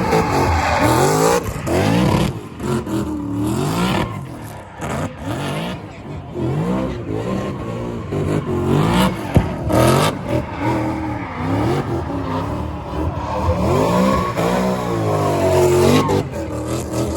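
Drift car's engine revving hard up and down, its pitch rising and falling about once a second, with tyres squealing and skidding as the car slides.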